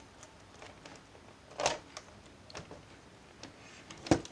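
Light clicks and taps of plastic laptop parts being handled, with two louder knocks, one near the middle and a sharp one near the end.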